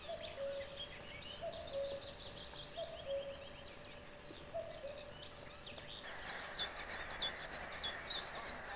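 A chorus of several songbirds chirping and calling, with a low, short call repeated about every second and a half. The chirping grows denser and louder about six seconds in.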